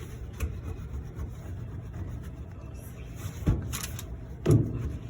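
Microfiber duster wand rubbing and scraping inside a clothes dryer's lint-trap slot. Two knocks come about a second apart near the end, the second the louder.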